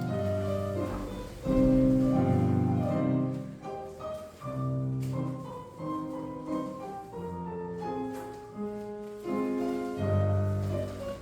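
Classical piano music used as ballet class accompaniment, moving through sustained chords that change every second or so.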